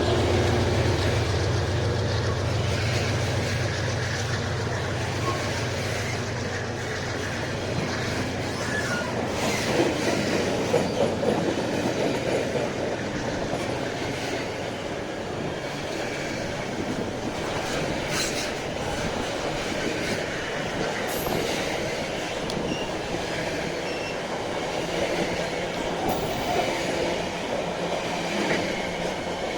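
A diesel freight train passing: the locomotive's engine hum fades over the first few seconds, then the wagons roll by with a steady rumble, clacking over the rail joints, with brief wheel squeals now and then.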